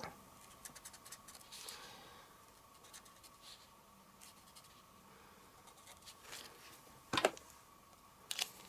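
Faint scratching of a Stampin' Blends alcohol marker tip colouring on cardstock, in short strokes, with a louder knock about seven seconds in.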